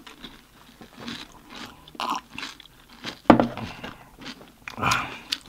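Close-miked eating sounds of pani puri and chatpate: wet chewing and crunching in scattered short crackles, with one sharp crack about three seconds in as the loudest moment.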